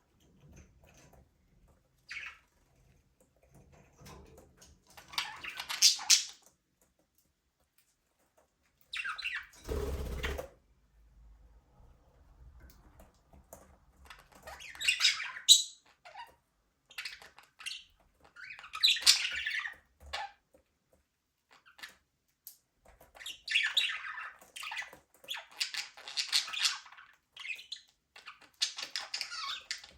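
Budgerigars chirping and squawking in short, separate bursts with quiet gaps between them, busier in the last third. A brief thump sounds about ten seconds in.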